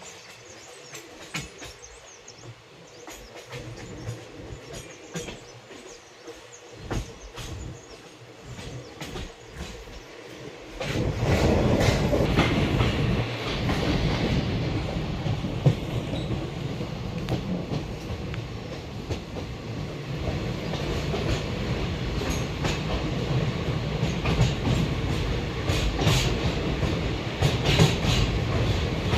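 Train running along the track, heard from on board, with scattered clicks of the wheels over the rails. About eleven seconds in it suddenly turns much louder, into a heavy steady rumble that continues.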